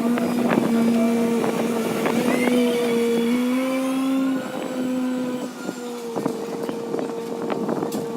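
Hyundai HW60 wheeled excavator's diesel engine and hydraulics running with a steady hum. The pitch lifts slightly for about a second in the middle as the hydraulics take load, then settles back. Scattered knocks and clicks run throughout.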